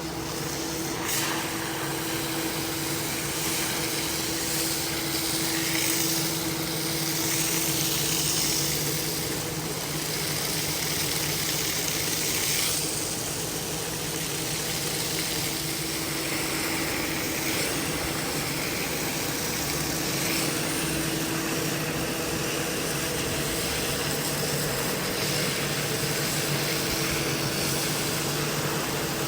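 A motor-driven carpet cleaning machine running steadily: a constant motor hum under a hiss of air or water spray.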